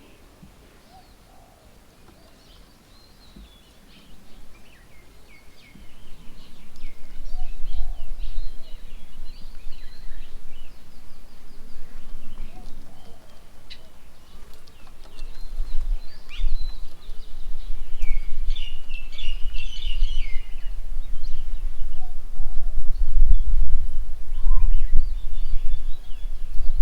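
Birds chirping and calling, short high notes, busiest around the middle. A loud, deep rumble sets in about five seconds in and grows stronger in the second half, drowning the calls in loudness.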